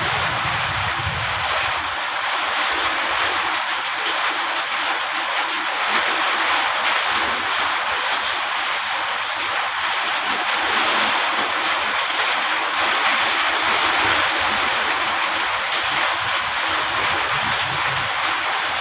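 Rain falling, a steady dense hiss with no let-up.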